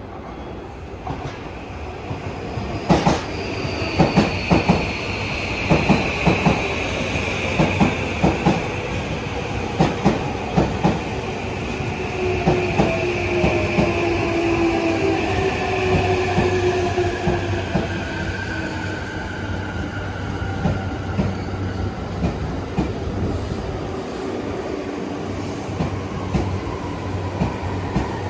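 JR Tohoku Main Line electric commuter train pulling into the station: its wheels clack in a rhythm over the rail joints, the clacks spacing out as it slows, under a whine that falls slowly in pitch as it brakes.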